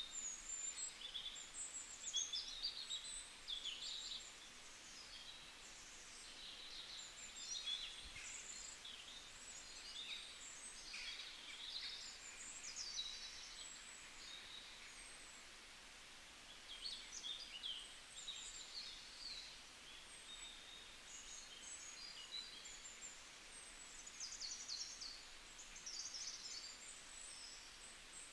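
Birds chirping: many short, high calls following one another in clusters, fairly faint over a quiet background hiss.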